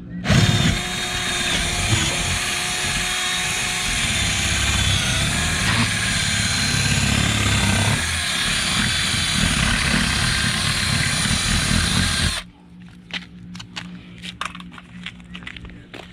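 Power drill running for about twelve seconds, its pitch wavering under load as it bores a hole for the backup camera's wiring grommet, then stopping suddenly; light clicks and knocks follow.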